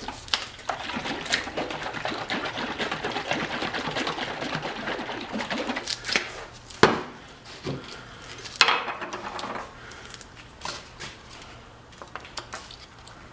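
Catalysed urethane paint being stirred in a mixing container, a rattly scraping for about six seconds, followed by a couple of sharp knocks and scattered small clicks.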